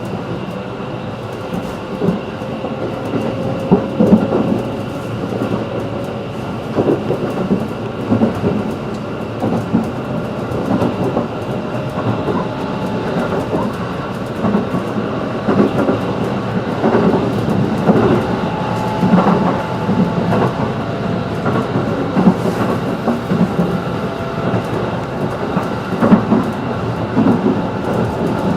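Inside a 211 series electric train car running at speed: a steady rumble with irregular clunks as the wheels cross rail joints, and a faint tone that rises slowly in pitch over the first several seconds.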